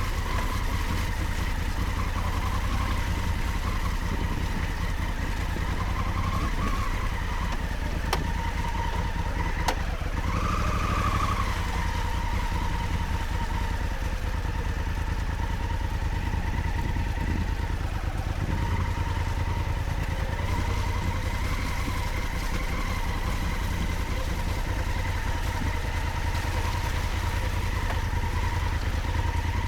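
Honda Africa Twin adventure motorcycle's parallel-twin engine running steadily while riding off-road, its pitch rising briefly about ten seconds in as the throttle opens, over a constant low rumble.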